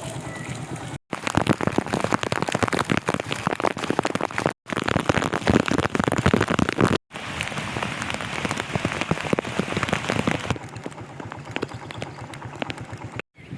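Heavy rain falling, a loud dense hiss thick with sharp drop impacts, in several short takes joined by abrupt cuts with a split second of silence between them; the last take is quieter.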